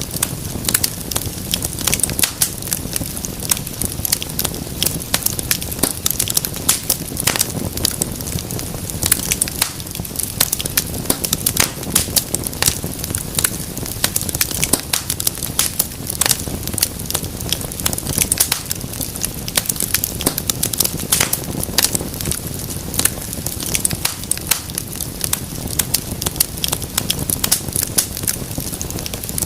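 Wood fire burning steadily, with a constant low rumble of flames and many sharp crackles and pops from the burning logs.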